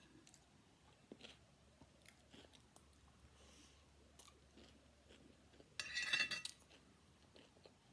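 Quiet close-up chewing of a mouthful of fried rice. About six seconds in, a metal spoon scrapes briefly across the ceramic plate, the loudest sound.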